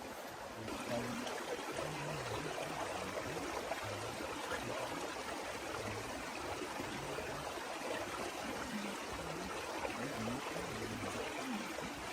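Steady hiss of heavy rain and running water, with no pause or change.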